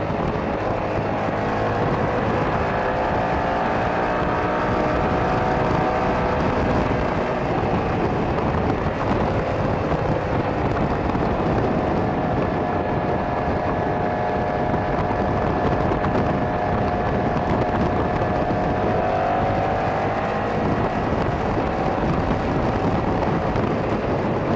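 Motorcycle engine running under way with wind rushing over the microphone; the engine note holds steady and drifts slightly up and down.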